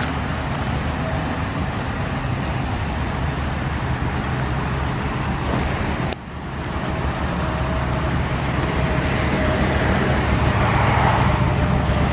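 2000 Ford F250's V-10 engine running steadily. The sound breaks off sharply about halfway through and picks up again at once.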